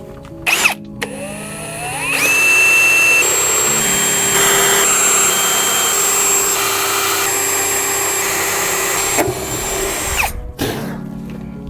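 Power drill spinning up and running steadily for about eight seconds, pre-drilling screw holes for a hatch in a fiberglass boat deck, then winding down about ten seconds in.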